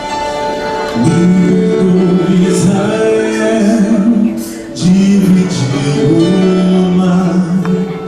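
A vocal quartet singing in harmony over instrumental accompaniment. The voices come in about a second in and pause briefly near the middle.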